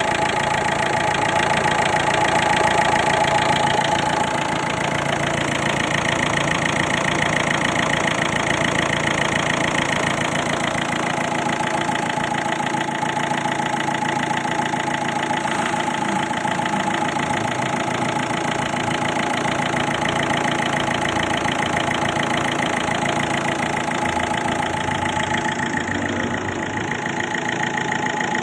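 Ford car engine idling steadily, with a steady whine running over the engine note.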